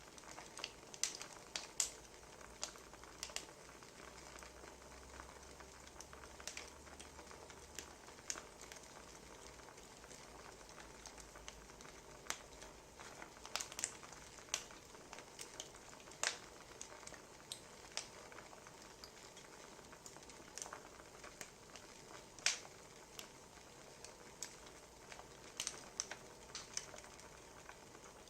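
Wood fire crackling, with irregular sharp pops and snaps over a faint, steady hiss.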